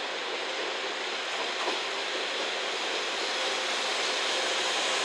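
Steady rushing train noise on the rails, slowly growing louder toward the end, with a faint steady hum.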